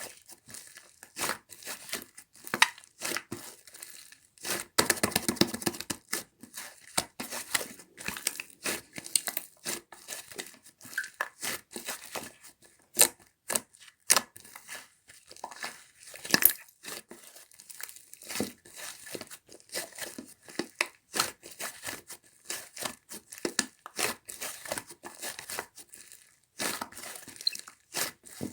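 Hands squishing, stretching and folding slime, making an irregular run of small sharp clicks and pops. About five seconds in there is a denser stretch of crackling.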